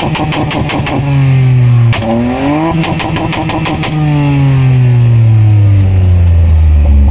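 A tuned performance engine being revved hard in repeated bursts, with rapid crackling pops from the exhaust twice at high revs, then the revs slowly falling back over the last few seconds.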